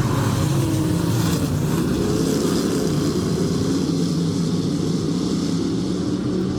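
Engines of a field of dirt-track race cars running together around the oval just after the green flag.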